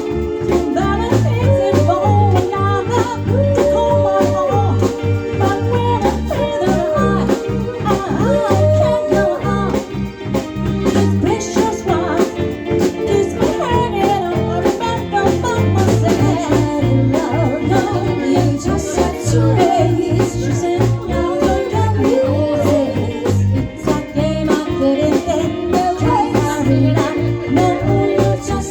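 A band playing a song live: a singer's voice over guitar, with a bass line stepping under it and a regular beat.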